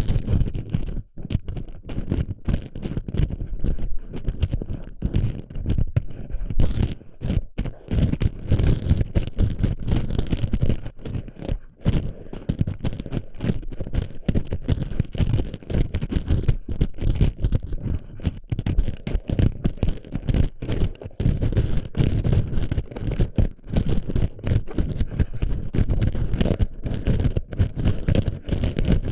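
Plastic BB pellets rattling and rubbing in the ear of an ASMR microphone: a dense, continuous scraping clatter of many small clicks over a low rumble.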